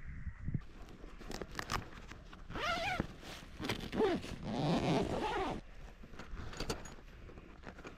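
Zipper being pulled in several strokes, with the loudest pull about halfway through, among clicks and rustles of tent fabric and gear being handled.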